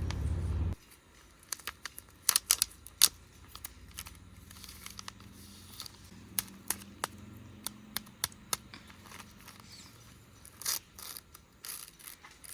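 Scattered sharp clicks and light taps, like small objects being handled, with a quick cluster about two to three seconds in. A low rumble at the very start cuts off abruptly just under a second in.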